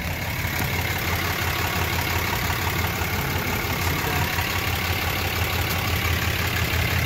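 2017 Ram 3500's 6.7-litre Cummins turbo-diesel inline-six idling steadily.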